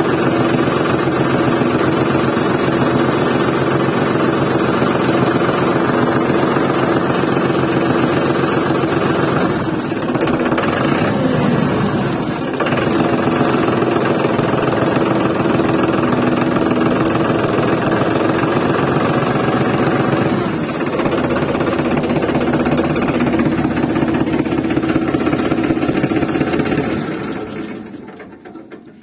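Tractor engine running steadily, dipping a few times and fading out near the end.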